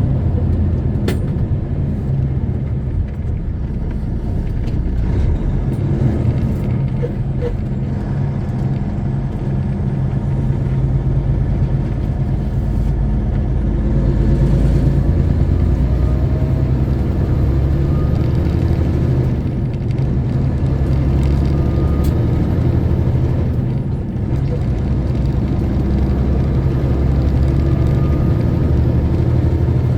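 Semi-truck diesel engine running under way with steady road rumble, heard from the cab. A faint whine rises slowly a few times in the second half.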